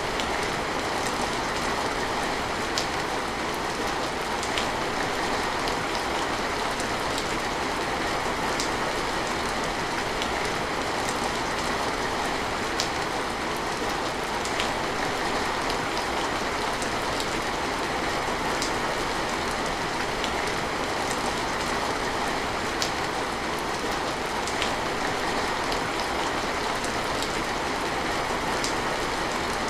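Steady heavy rain, a dense even hiss with scattered sharp drip ticks.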